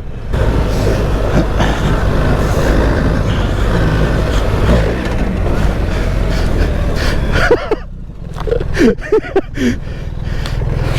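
BMW R 1300 GS Adventure's boxer-twin engine running under way off-road, with wind and tyre noise. The sound drops away briefly about eight seconds in, and a few short chirp-like tones come through before it picks up again.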